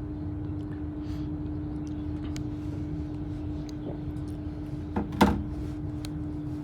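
Inside a passenger train carriage: a steady low rumble with a constant hum, a few faint clicks, and one sharp knock about five seconds in.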